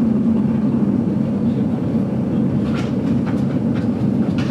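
Steady low rumble of the GoldenPass Belle Époque train running along the line, heard from inside the passenger carriage. A few short sharp clicks come in during the last couple of seconds.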